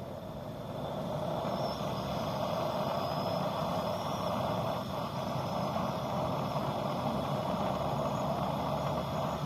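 A motor vehicle running steadily, growing louder about a second in and then holding an even, noisy drone.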